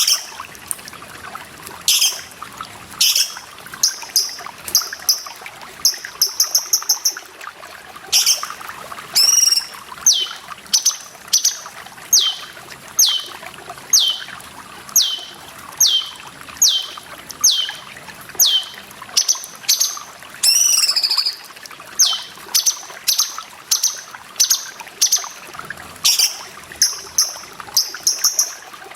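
Cucak cungkok calling: a long run of sharp notes that slide downward, about one every half second or so, mixed with quick chattering trills and a couple of harsher wavering calls. Behind them runs a steady trickle of water.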